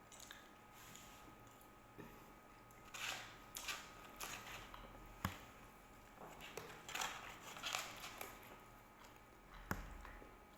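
Close-up eating sounds: bites and chewing in two irregular bursts, with two sharp clicks, one about halfway through and one near the end.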